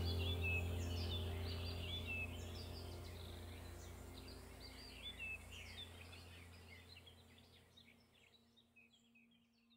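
Small songbirds chirping and twittering in quick, varied phrases over a low steady drone, the whole bed gradually fading out toward the end.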